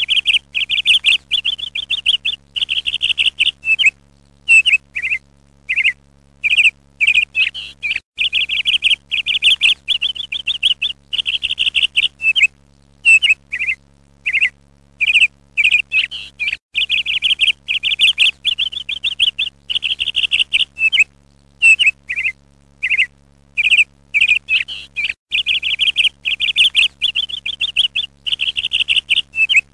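Songbird chirping: rapid trills and short whistled notes in phrases of a second or a few seconds, with short pauses between them, over a faint steady low hum.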